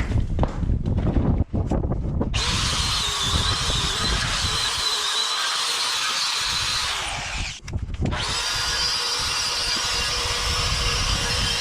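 Power drill running in two long runs, a steady high whine that winds down and stops about seven and a half seconds in, then starts again a moment later. Before it starts, wind rumbles on the microphone along with a few knocks.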